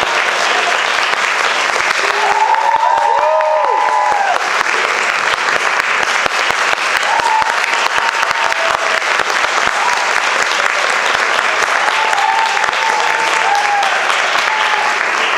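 Audience applauding steadily, with a few voices calling out and whooping over the clapping.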